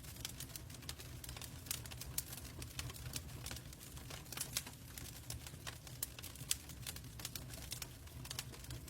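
Wood logs burning in a fireplace: irregular crackles and pops over a low steady rumble from the flames, with one sharper pop about six and a half seconds in.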